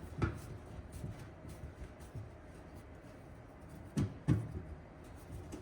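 Replacement fuel tank being shifted and bumped in the trunk pan to line up its screw holes: low scraping and handling noise with a few dull knocks, two of them close together about four seconds in.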